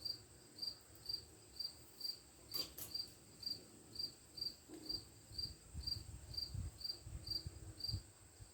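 A cricket chirping steadily, about two short high chirps a second, with a couple of faint clicks and low knocks of handling in the background.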